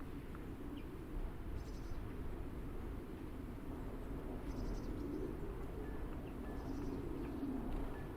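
Small birds chirping faintly about three times, each a short high call, over a steady low outdoor rumble.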